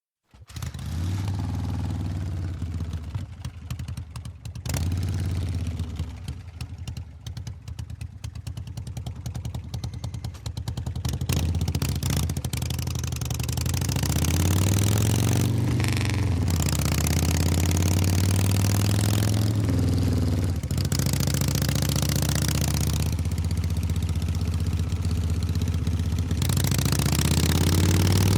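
Motorcycle engine running: an uneven, pulsing idle at first, then louder with its pitch rising and falling several times as it is revved, and climbing again near the end.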